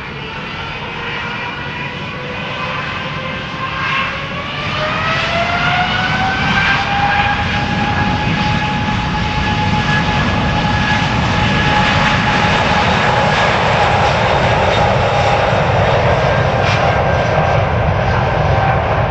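Twin-engine jet airliner's engines spooling up: a whine rising in pitch about four to seven seconds in, then holding steady as the rumble grows louder.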